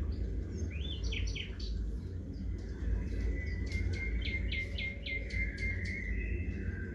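Small songbirds calling: a few short rising chirps about a second in, then a run of about eight quick falling notes, some three a second, over a steady low background noise.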